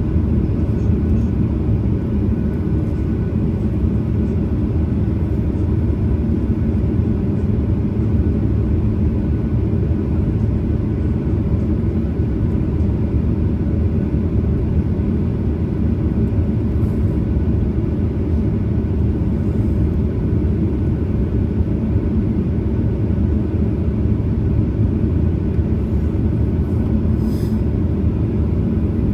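Cabin noise inside a Boeing 737-900ER: a steady, deep rumble of its CFM56-7B turbofan engines and airflow, heard from a window seat behind the wing, with a faint steady whine above it.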